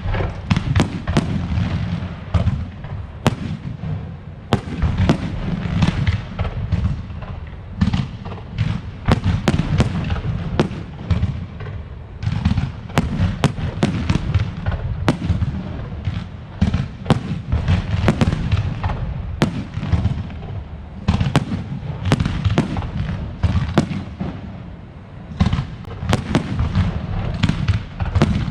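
Aerial fireworks display with a dense, unbroken string of sharp cracks and deep booms, several a second.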